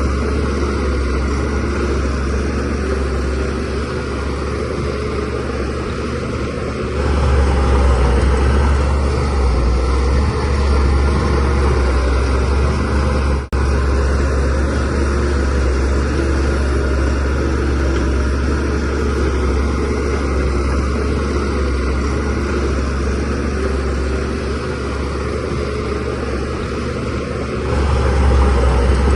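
DH17C3 crawler bulldozer's diesel engine running steadily, getting louder about a quarter of the way in and again near the end, with a brief drop about halfway through.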